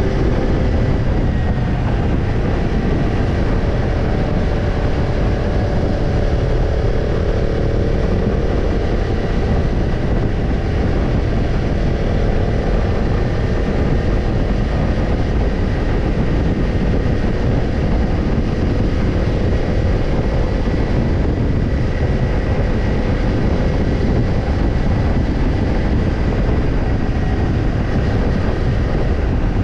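Kawasaki Ninja 250's parallel-twin engine running through a BEET NASSERT Evolution Type II titanium slip-on muffler, holding fairly steady revs with a continuous exhaust note.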